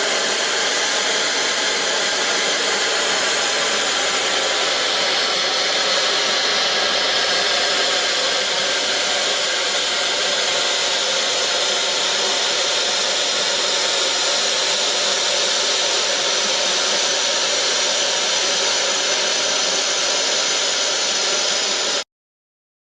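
Steam hissing steadily from the Peppercorn A1 Pacific locomotive 60163 Tornado, an even, loud hiss that cuts off abruptly near the end.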